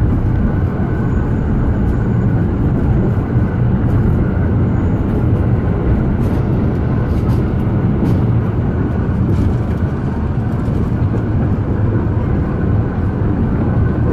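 Alishan Forest Railway train running, heard from on board: a steady low rumble with a few faint clicks.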